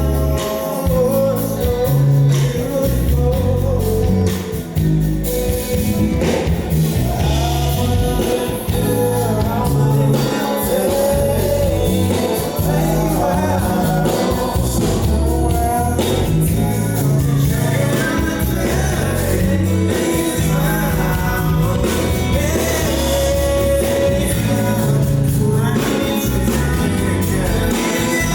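Live R&B band playing with a singer: bass, drums, guitar and vocals over a steady groove.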